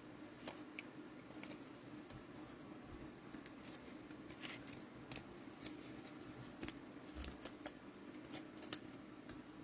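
Faint handling of trading cards: scattered light clicks and rustles as cards are slid and flipped through a stack, over a steady low hum.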